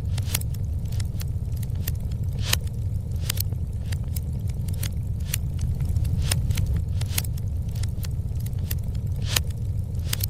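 Fireplace fire crackling, with irregular sharp pops over a steady low rumble; two louder pops, about two and a half seconds in and near the end.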